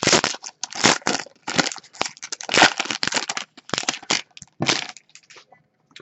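A plastic card-pack wrapper crinkling and crackling in irregular bursts as hockey cards are handled. It stops about five seconds in.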